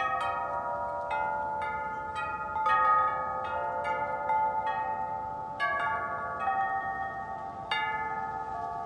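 Wind chimes ringing in the wind: struck again and again at uneven intervals, with several notes overlapping and ringing on between strikes. The loudest cluster of strikes comes about three seconds in, over a faint low rush of wind.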